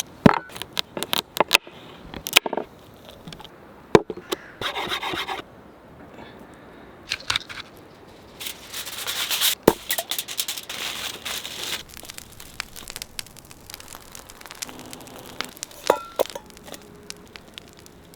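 Handling sounds of food preparation: sharp clicks and knocks, with bursts of scraping and rubbing about four seconds in and again from about eight to twelve seconds.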